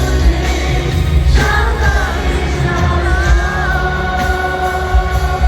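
Live pop concert music from the arena floor: heavy bass under a sung melody, with a long held note from about three seconds in.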